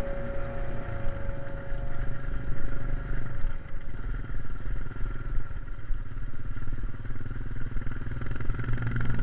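Motocross dirt bike engine running, its loudness rising and falling.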